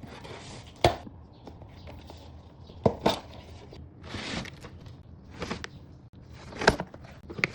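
Cardboard box and packaging being handled during unboxing: three sharp knocks, about a second, three seconds and nearly seven seconds in, with short scrapes and rustles of cardboard and wrapping between them.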